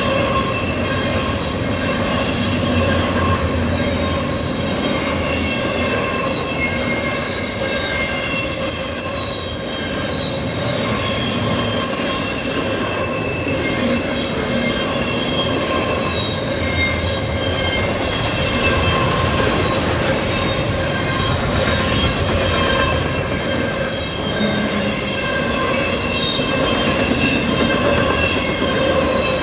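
Freight train of double-stack intermodal well cars rolling steadily past, wheels rumbling on the rails with a continuous high squeal from the wheels.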